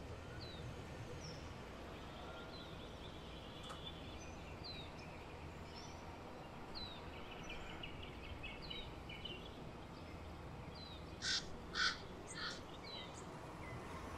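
Outdoor bird ambience: a small bird repeats a short, high, falling chirp every second or two over a steady low background rumble, and three loud, harsh calls come close together near the end.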